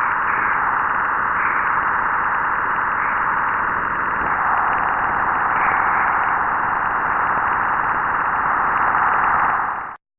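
Space radio emissions recorded by a NASA spacecraft and converted to audio: a steady, hissing rush, slowly shifting, that cuts off suddenly near the end.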